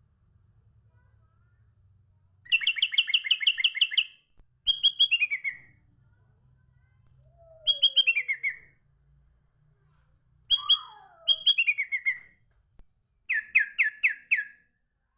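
A songbird singing in about six short phrases with pauses between: some are rapid strings of repeated notes, others slurred notes falling in pitch.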